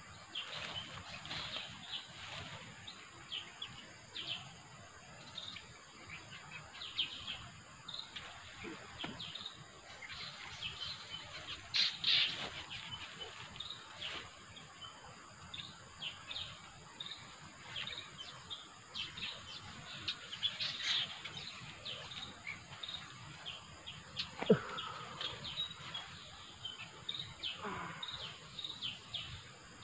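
Birds chirping in short, scattered calls over a steady high-pitched drone. Near the end come a couple of louder sounds that sweep downward in pitch.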